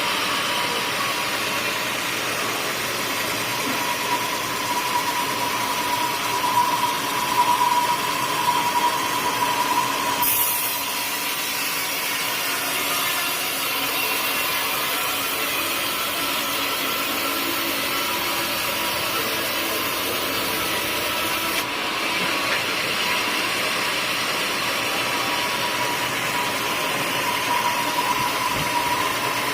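Sawmill saw running and cutting teak wood: a steady machine noise with a ringing high tone over it. The sound changes abruptly about ten seconds in, when the tone drops out, and again about two-thirds of the way through, when it returns.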